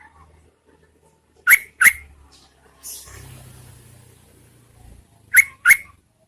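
Yellow-vented bulbul giving two pairs of short, sharp call notes, about four seconds apart, as a lure call of a female to draw males. A fainter hiss runs between the two pairs.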